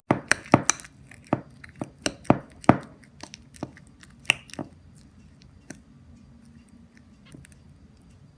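Popcorn kernels popping in a microwave popcorn popper: sharp irregular pops, quick and close together for the first three seconds, then thinning out to scattered pops, over a low steady hum.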